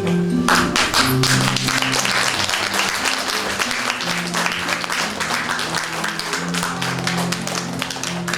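Audience applauding over background music that plays a held, slow melody; the clapping starts about half a second in.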